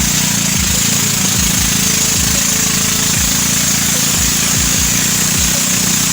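Ketinting longtail boat engine running steadily under way, a loud, even drone with a steady hiss over it.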